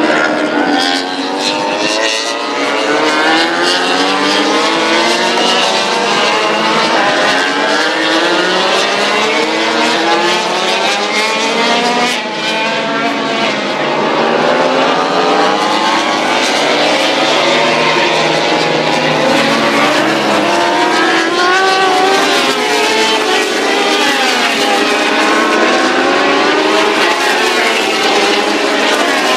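Several MotoGP racing motorcycles at full throttle at once, their engine notes overlapping, each climbing in pitch and dropping sharply at every upshift as they accelerate through the gears. The sound is loud and continuous.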